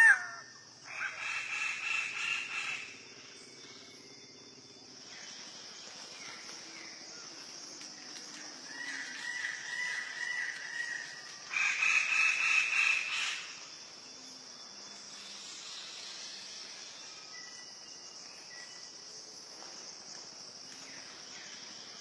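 Bird-of-paradise calling: harsh, grating bursts twice, and a short run of quick wavy notes in between, over a steady high insect buzz.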